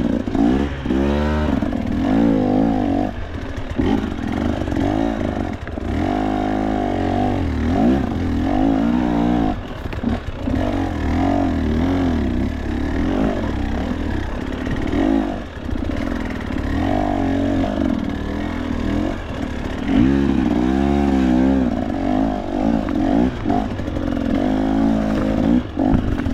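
KTM two-stroke enduro dirt bike engine revving up and down over and over as the throttle is worked.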